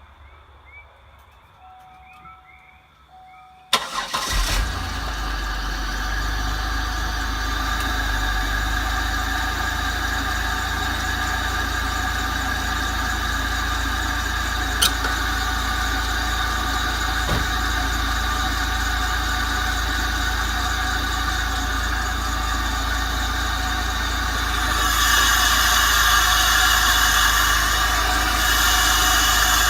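2000 Pontiac Bonneville SSEi's supercharged 3.8-litre 3800 Series II V6 starting about four seconds in after a brief crank, then idling steadily; it grows louder and brighter near the end. The owner suspects rod knock, which he says is heard mainly under load.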